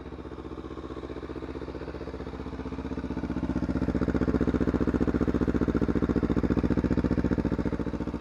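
Kawasaki Z250 motorcycle's parallel-twin engine idling with an even beat, growing louder about three seconds in.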